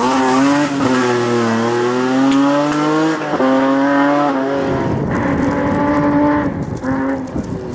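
BMW 3 Series engine revving hard while drifting: its pitch sinks and climbs again, jumps abruptly about three seconds in, then gives way to a rougher, noisier stretch with short stabs of throttle near the end.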